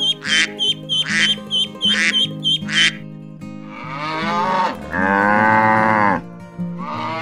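A duck quacking in a rapid series for about three seconds, then a cow giving one long moo from about four to six seconds in.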